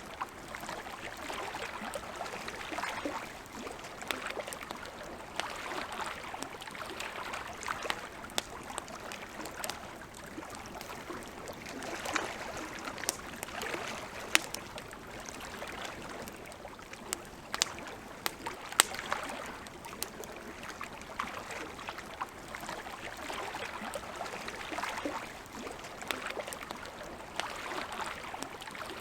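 Campfire crackling: a steady soft hiss dotted with many sharp pops and snaps, a few louder pops about halfway through.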